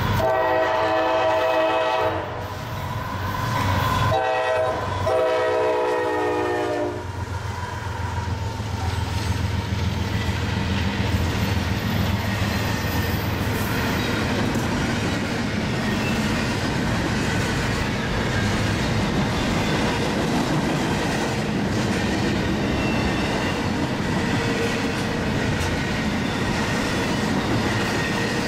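Diesel freight locomotive's air horn sounding two blasts, the second longer at about three seconds, as the locomotives pass. Then the steady rumble and wheel clatter of a long double-stack intermodal container train rolling by.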